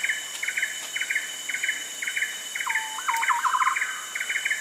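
Rainforest ambience: short clustered chirps repeat about twice a second, a lower rapid pulsed call comes in briefly mid-way, and a steady high insect whine runs underneath.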